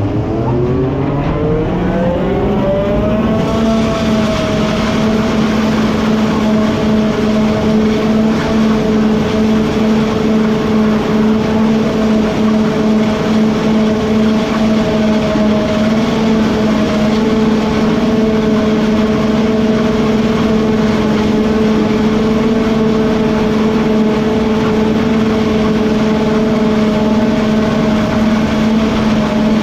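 A farm machine's engine rising in pitch over the first few seconds as it revs up, then running steadily at high revs.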